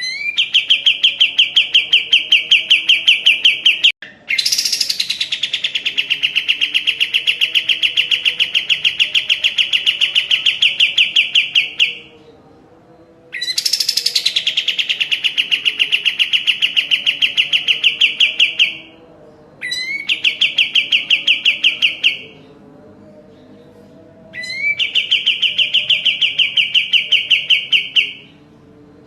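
Kapas tembak songbird singing a series of five long, fast trills, each a rapid run of repeated notes lasting about two to eight seconds, with short pauses between them. Two of the trills open with a high note that slides down, and the others begin with a quick upward sweep.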